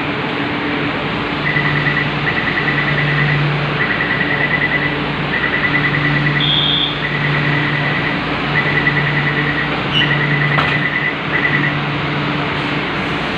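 Door-closing warning beeper on a Wenhu line train stop: rapid pulsed beeps in repeated short bursts, about one burst every second and a half for some ten seconds, over a steady hum of the train and station.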